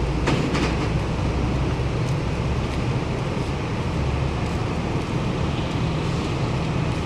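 Steady low diesel rumble of the docked ro-ro ferry and the vehicles on its car deck running, with a couple of brief clatters about half a second in.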